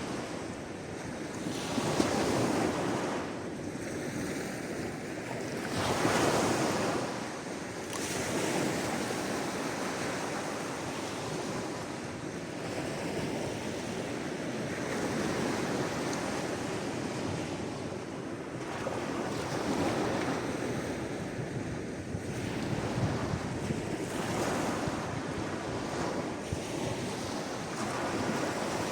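Sea waves washing onto the shore, a continuous rush of surf that swells every few seconds as each wave breaks, with some wind noise on the microphone.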